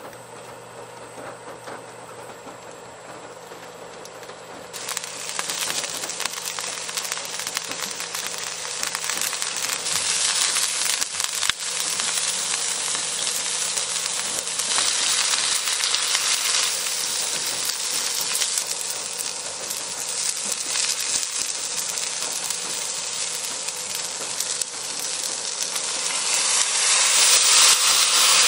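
Chicken pieces, and then rice, sizzling in hot oil in a nonstick frying pan. The sizzle starts suddenly about five seconds in, carries on steadily, and is loudest near the end.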